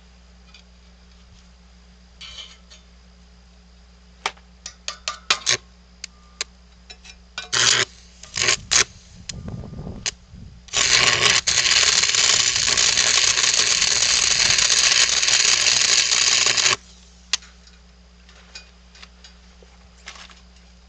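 Electric welder laying a short weld on the steel splitter frame: a steady crackling hiss lasting about six seconds that cuts off sharply. Before it come scattered metal clanks and scrapes as the pieces are handled and positioned.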